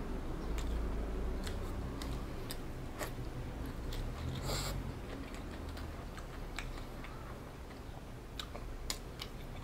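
Biting into crispy fried chicken and chewing, with scattered small crunchy clicks and one louder crunch about four and a half seconds in.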